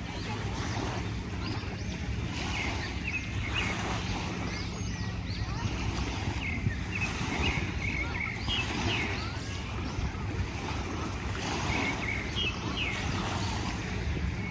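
Seashore ambience: steady surf and wind noise with a low hum underneath, and clusters of short high chirps coming every second or two.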